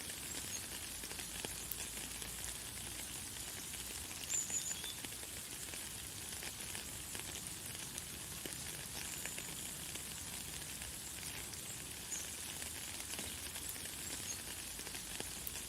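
Light, fine rain pattering steadily, with a few brief high bird chirps now and then.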